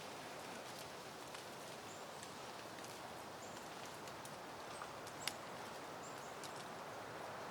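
Soft, steady wind rustling through leafy plants, with scattered sharp ticks and a few brief high chirps.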